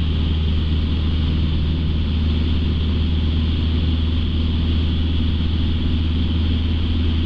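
Steady drone of a light aircraft's piston engine and propeller heard from inside the cockpit in flight, holding an even pitch and loudness.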